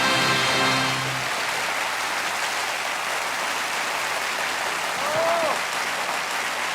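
Concert audience applauding as the band's last chord stops about a second in. One short call that rises and falls in pitch comes through the clapping near the middle.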